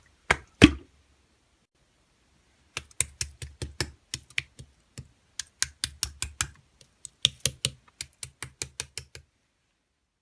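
Slime being pressed and squished by hand: quick runs of sharp clicks and pops, several a second, in bursts with short pauses. They stop about nine seconds in.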